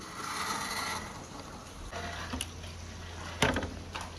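Water running and splashing through a water marble run course, with a few sharp clicks of marbles knocking, the loudest about three and a half seconds in.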